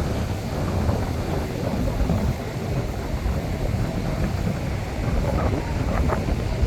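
Wind buffeting the microphone in a steady, uneven low rumble.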